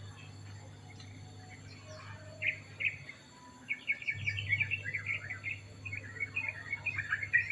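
Small birds chirping in quick runs of short, high notes, sparse at first and then dense and busy through the second half.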